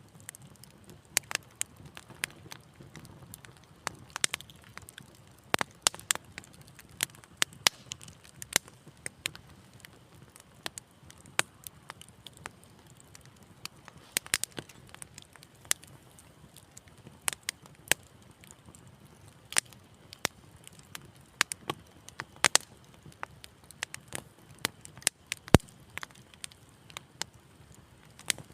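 Wood fire crackling in a fireplace: irregular sharp pops and snaps, sometimes several in a second, over a soft low rumble.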